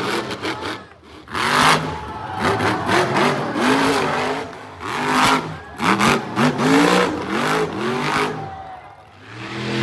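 Monster truck engine revving hard over and over, its pitch climbing and falling with each stab of the throttle. It drops away briefly about a second in and again near the end.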